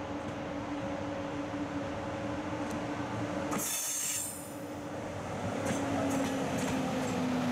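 TGV Réseau high-speed electric trainset rolling slowly past, its power car giving a steady electric hum. A brief high-pitched wheel squeal cuts in about three and a half seconds in.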